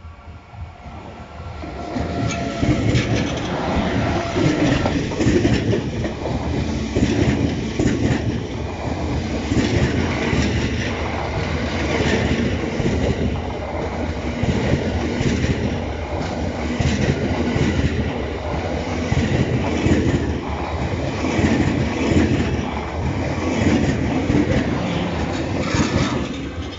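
Train Suite Shiki-shima passing close by at a level crossing. Its wheels clatter over the rail joints in a steady run of beats; the noise builds about two seconds in and eases off near the end.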